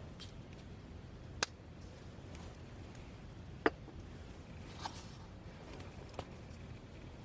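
Wood campfire crackling, with four sharp pops over a low steady background; the loudest comes about a second and a half in and another just under four seconds in.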